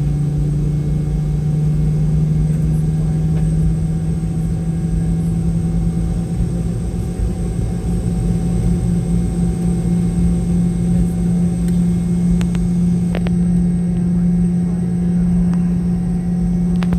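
Boeing 717-200's Rolls-Royce BR715 jet engines running, heard inside the cabin as a steady hum over a low rumble, the hum's pitch rising slightly. A few faint clicks sound near the end.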